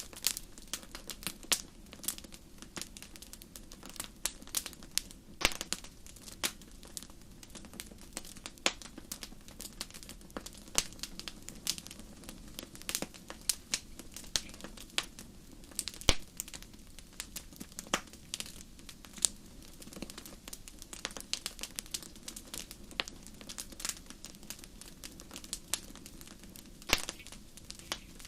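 Wood fire in a fireplace crackling: frequent, irregular sharp pops and snaps over a low, steady background rumble, with one louder pop about halfway through.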